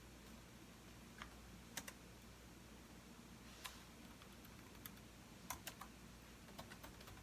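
Computer keyboard keys pressed sparsely and irregularly: about a dozen faint keystrokes with pauses between them, some in quick pairs or triplets, over a steady low hum.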